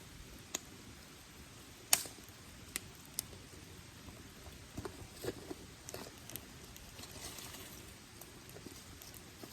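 Wood campfire crackling: irregular sharp pops from burning firewood, the loudest about two seconds in and a quick cluster of smaller ones past the middle, over a faint steady background hiss.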